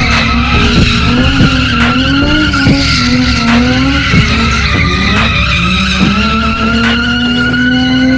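A car doing a burnout or doughnuts: the engine held at high revs, wavering and then holding high and creeping up, over the tyres skidding and squealing.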